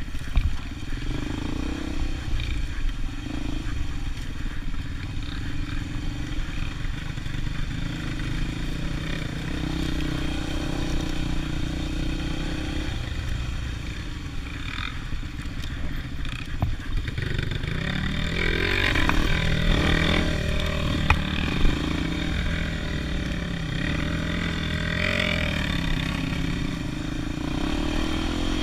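Motorcycle engine running while riding, its pitch rising and falling with the throttle in the second half. Two sharp knocks come a little after the middle.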